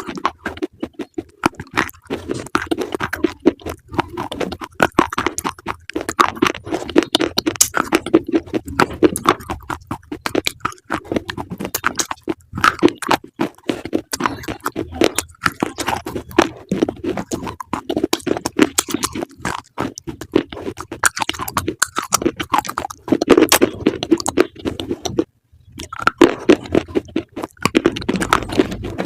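Close-up chewing of crunchy food: a rapid, continuous run of crisp crunches, broken by a short silent gap about 25 seconds in.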